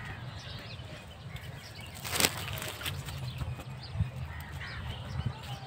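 Birds calling faintly in the background over a steady low rumble on the microphone, with one brief sharp crackle about two seconds in.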